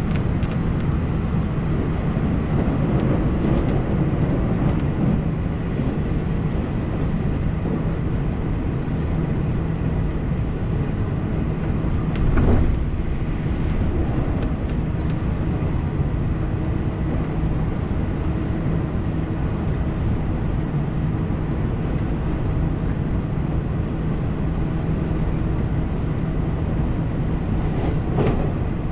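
JR Central 313 series electric train running at speed, heard from inside the carriage: a steady rumble of wheels on rail. A short, louder burst comes about twelve seconds in, and a smaller one near the end.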